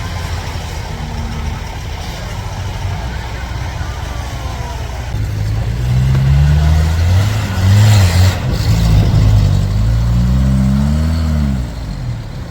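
Off-road 4x4 engines running low and steady, then revving up and down repeatedly under load from about five seconds in, with a brief burst of noise about eight seconds in.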